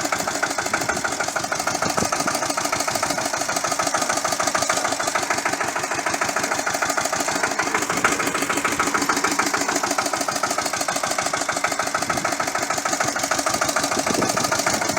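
Pasquali tractor's Lombardini LDA96 single-cylinder air-cooled diesel running steadily, with a rapid, even chug.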